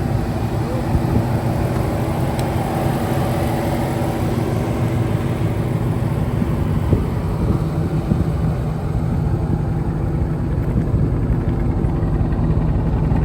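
A car engine idling steadily, with a low, even hum.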